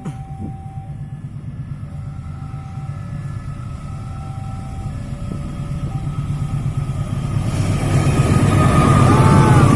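A train approaching, its diesel locomotive engine rumbling and growing steadily louder, with wheel and rail noise swelling over the last couple of seconds.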